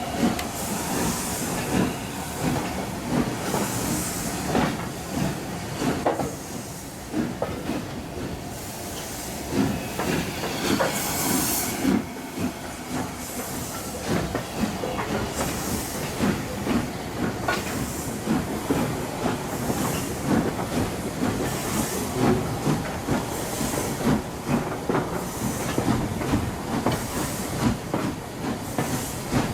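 Steam-hauled train running on the rails, with the clatter and knocking of wheels and carriages and recurring bursts of steam hiss every second or two.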